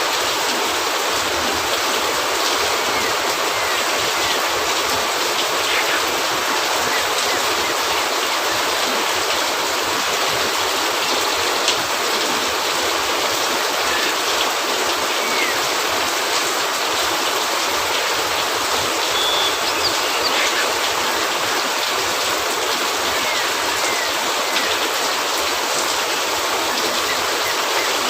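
Steady, dense rain falling on a cabin roof, with a few faint pops from a crackling wood fire.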